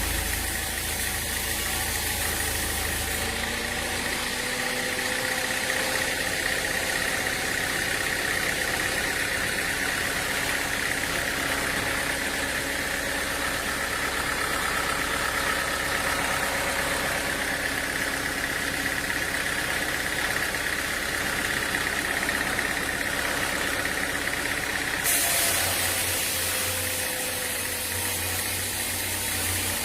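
Machinery running steadily with an engine-like hum and a few held tones. The sound changes abruptly about three seconds in and again near the end.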